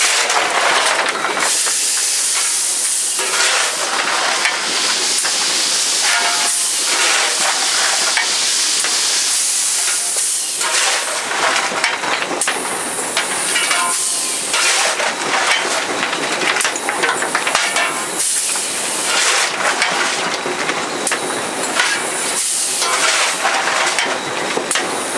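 Steady steam hissing in the cab of Southern Railway 630, an Alco 2-8-0 Consolidation steam locomotive, with irregular metallic clanks and knocks throughout.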